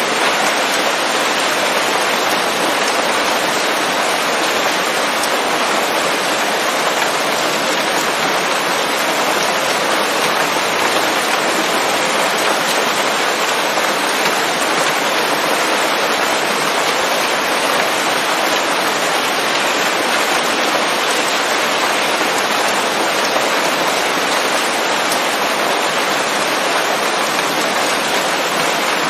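Steady rain falling on leafy forest foliage, a dense, even patter of drops that holds constant throughout.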